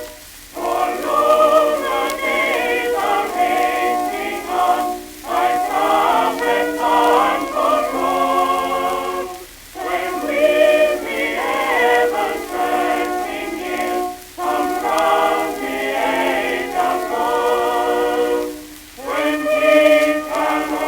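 A choir singing from an early shellac phonograph record, in phrases of about four to five seconds with short breaks between them. The sound is cut off above about 4 kHz, with a faint hiss above the voices.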